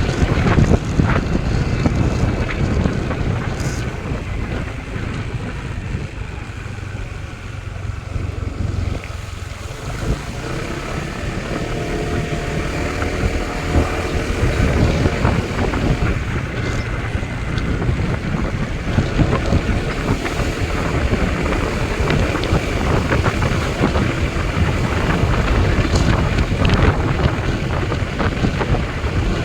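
Wind buffeting the microphone: a loud, continuous, gusty rumble with no clear pitch.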